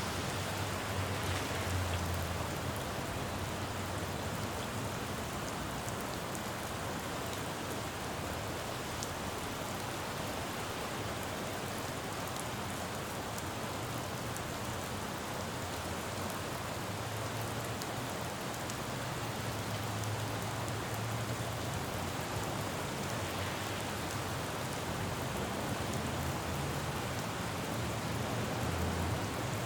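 Steady rain falling on a road, with the low rumble of passing traffic swelling near the start, around the middle and near the end.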